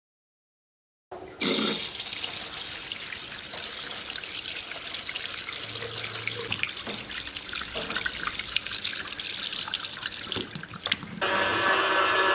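Water running from a kitchen tap into a sink, starting about a second in and running steadily with splashing. Near the end it cuts abruptly to a louder steady mechanical hum.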